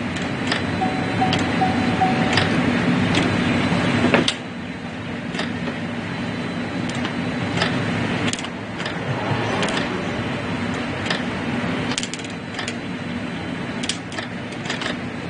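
Small sparks snapping as a ground cable is touched against a car's battery and engine ground: a string of short, sharp irregular clicks over a steady mechanical hum. The hum drops suddenly about four seconds in. The spark is the sign of current flowing in a suspect engine ground circuit.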